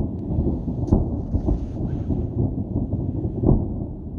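Distant aerial fireworks bursting, heard from far off as a continuous low rumble of overlapping booms, with two louder thuds about a second in and near the end.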